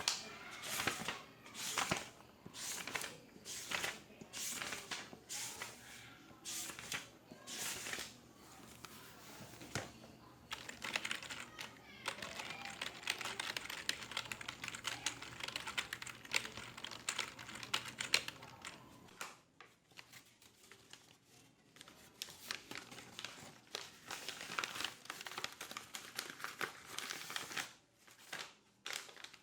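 Computer keyboard typing in an office: fast runs of keystrokes with short pauses, and slower, separate louder clicks through the first third. The typing dies down briefly about twenty seconds in, then picks up again.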